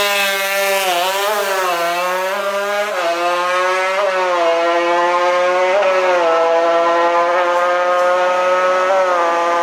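Two-stroke Kawasaki KR150 drag-bike engine, tuned and bored to 59 mm, running at high revs. Its buzzing pitch dips and rises several times in the first few seconds, then holds nearly steady with small blips.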